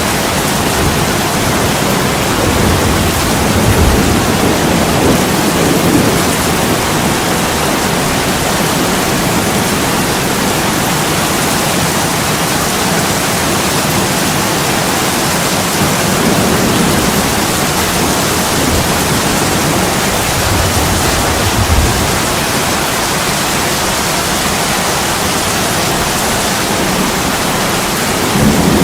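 Heavy rain pouring steadily on a window, an even hiss with a few low swells in loudness about four to six seconds in and again about twenty-one seconds in.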